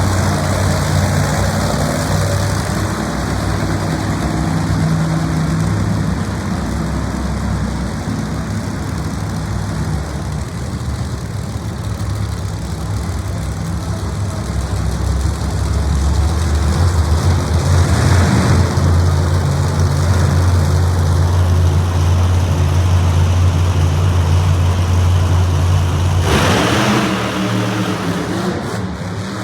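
Monster truck engine running loud, its low note holding steady and then changing pitch. About halfway through a deeper, steadier engine note comes in and holds until near the end, when it drops away.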